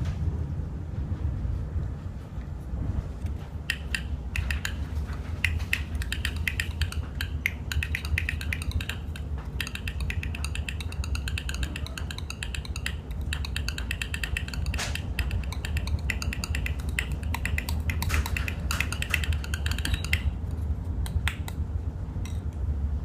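Fingers tapping fast, intricate percussive rhythms on a small hard surface: dense runs of sharp clicks that start a few seconds in and stop near the end, with a few last taps. Underneath is the steady low rumble of a moving train.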